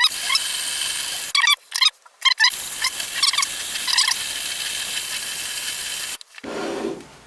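Myford ML7 lathe taking a spring cut along a metric thread in aluminium: a steady hiss with short squealing chirps from the threading tool. It pauses for about a second, about a second and a half in, then stops about six seconds in.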